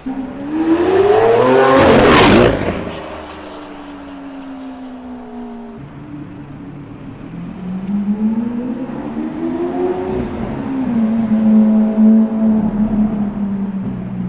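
A supercar accelerating hard past, its engine note climbing to a loud peak about two seconds in and then dropping away. A few seconds later the engine revs up again and holds a steady note near the end.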